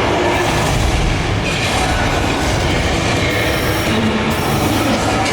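Open-air tour tram in motion, heard from on board: a steady, loud running noise of the moving cars.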